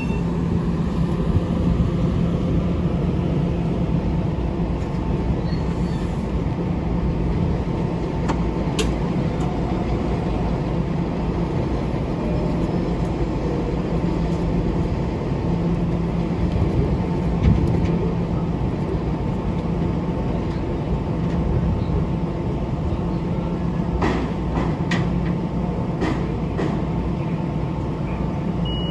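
Long Island Rail Road train running: a steady rumble with a steady hum, and a few clicks about three-quarters of the way through.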